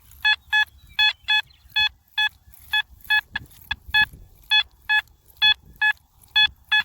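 Metal-detecting electronics beeping: about sixteen short electronic beeps, all at one steady pitch, in an irregular rhythm.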